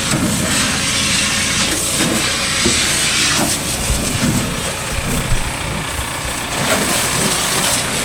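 High-pressure water jet hissing steadily as it is sprayed over a tractor's open engine bay, with a motor running underneath.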